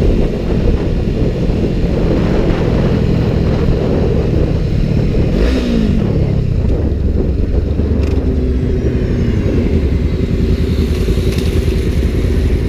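Sport motorcycle engine running while riding, its note dropping briefly about five and a half seconds in.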